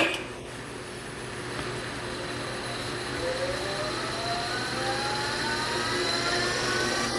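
A lathe motor whining as it spins up, its pitch rising slowly and steadily throughout, over a low steady hum. A sharp click right at the start.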